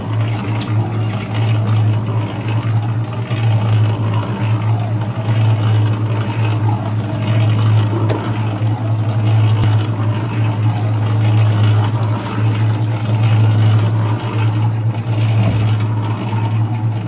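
Concrete mixer running steadily with a constant low hum as it mixes a batch of concrete.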